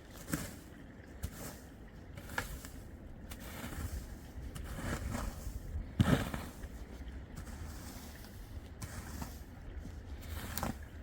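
A steady low rumble, like wind buffeting the microphone, with scattered knocks and scrapes and one louder thump about six seconds in.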